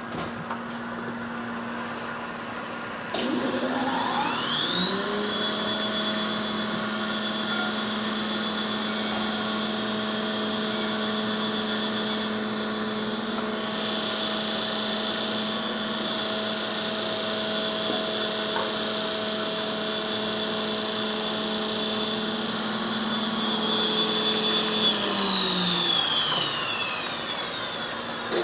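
Cincinnati universal cylindrical grinder's grinding wheel motor starting about three seconds in. It whines up to speed within a couple of seconds, runs at a steady high whine, and is switched off near the end and winds down. Another motor on the machine hums steadily underneath throughout.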